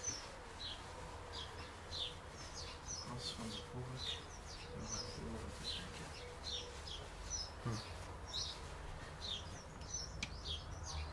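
Small birds chirping, short high chirps about twice a second throughout, with a low steady hum underneath.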